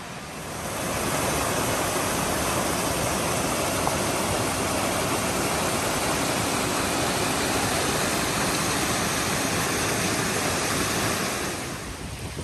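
Creek water rushing, a steady even noise that comes up about a second in and falls away near the end.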